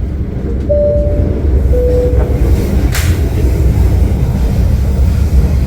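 Passenger train carriage running with a steady low rumble. Near the start, two short steady chime notes sound, the second lower, closing the onboard announcement. There is a sharp click about three seconds in.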